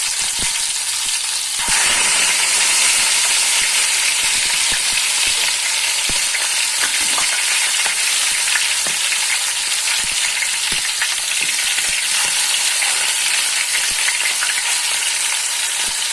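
Steamed chicken pieces sizzling and crackling in hot ghee and oil in a wide pan, the sizzle getting louder about two seconds in.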